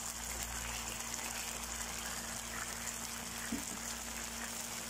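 Chopped shallots, garlic and a spoonful of tomato sauce sizzling steadily in hot oil in a frying pan, with one brief knock about three and a half seconds in.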